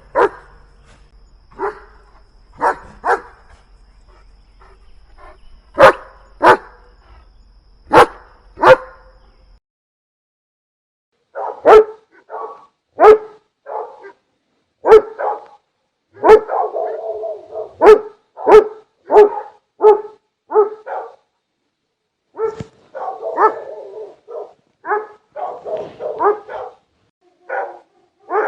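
Big dogs barking: spaced single barks at first, then after a short silence a new recording of barks in quicker runs, with another brief pause near the end.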